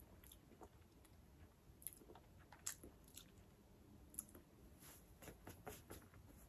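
A person chewing a crunchy puffed corn stick snack, faint crunches coming irregularly a few times a second.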